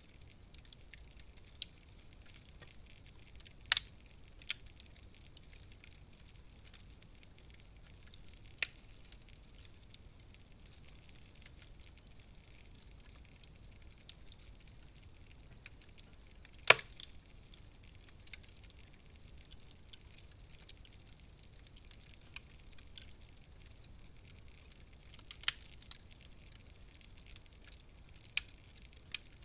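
Wood fire crackling in a fireplace: a low steady hiss with irregular sharp pops and snaps, two louder pops about four and seventeen seconds in.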